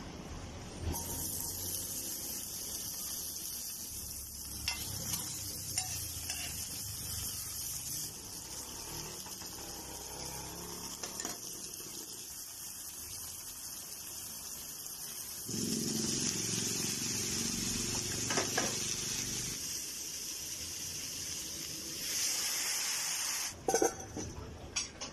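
Dried salted fish and chopped garlic sizzling in hot oil in a frying pan, with a few knocks from stirring. The sizzle jumps in level a few times, and near the end a metal pan lid clatters with a few sharp clicks.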